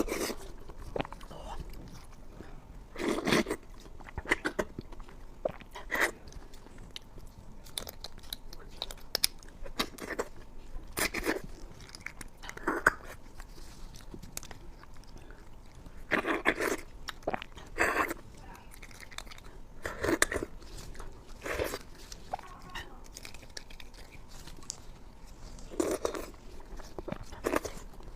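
Close-miked eating: biting and chewing with crunching, in irregular bursts every second or two.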